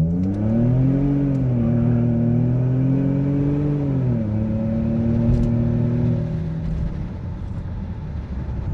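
Ford 3.5 L EcoBoost twin-turbo V6 in an F-150 under hard acceleration on a wide-open-throttle test pull after new spark plugs. The engine note climbs and holds, drops sharply about four seconds in as the transmission upshifts, then eases off. The truck pulls without the earlier stutter and sounds pretty peppy.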